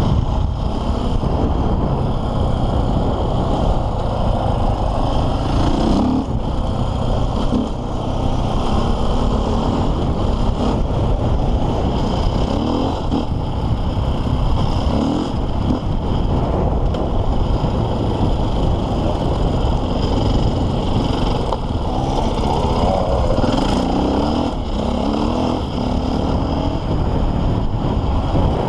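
KTM EXC 450 single-cylinder four-stroke enduro engine running hard while riding offroad, the revs rising and falling, with short climbs in pitch several times.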